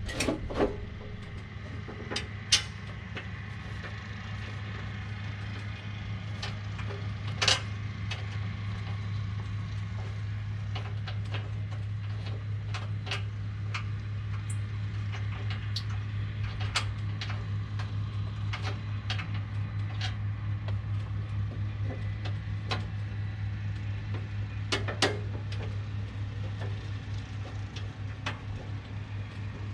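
Scattered metal clinks and knocks from baler parts and hand tools being fitted, the loudest about seven seconds in, over a steady low hum.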